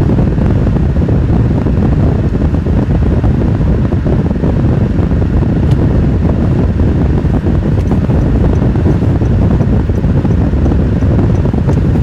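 Steady low rush of wind and road noise from a moving car.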